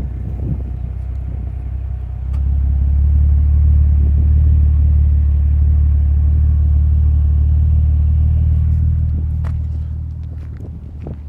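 Nissan Skyline R34 GT-T's RB25DET Neo turbocharged straight-six idling through a NISMO cat-back exhaust, a steady low rumble. It gets louder about two seconds in, holds at one pitch, then fades near the end.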